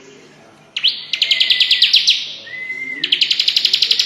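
Bar-winged prinia (ciblek) singing its rapid chattering 'cetrekan' song. After a short pause it breaks into two fast runs of sharp notes, about ten a second, with short held whistles between them.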